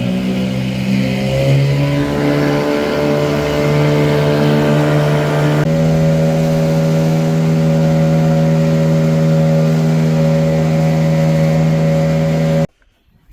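Small boat's outboard motor running under way, its pitch rising as it speeds up over the first couple of seconds, then holding steady at speed before cutting off suddenly near the end.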